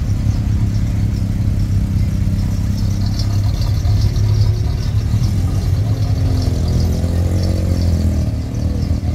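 Car engine running with a deep, steady note as a show car rolls slowly past, its pitch rising and falling briefly near the end.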